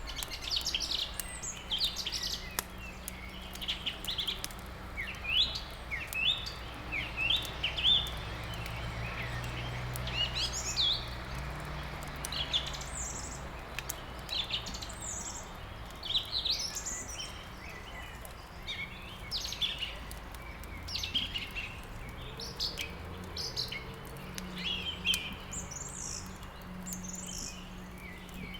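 Many small songbirds chirping and trilling in quick, overlapping calls, over the light crackle of a wood fire burning in a fireplace.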